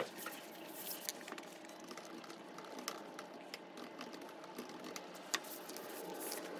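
Typing on a computer keyboard: irregular key clicks over a steady background hum.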